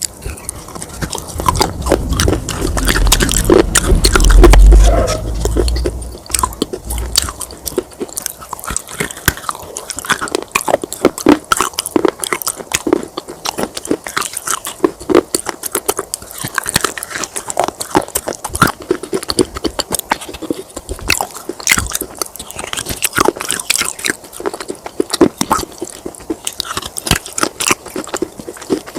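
Close-up crunching of baked clay-pot pieces being bitten and chewed, with rapid, irregular crisp cracks throughout. A deep low rumble swells in the first few seconds and is the loudest part.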